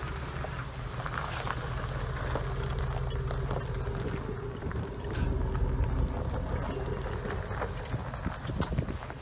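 A motor vehicle's engine running steadily, with scattered knocks and clatter over it.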